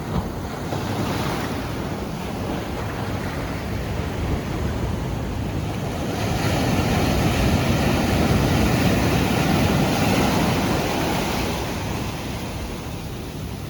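Sea surf breaking and washing up a sandy beach, with wind on the microphone; the surge of a wave swells to its loudest about halfway through, then eases off.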